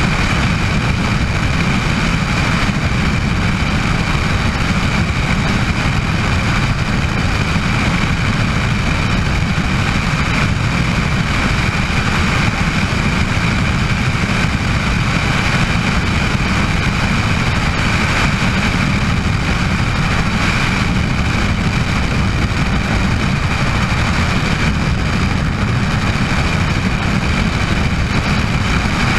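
Bell 206 JetRanger helicopter running steadily: a dense low rumble from the rotor and engine, with a steady high whine from its Allison 250 turbine.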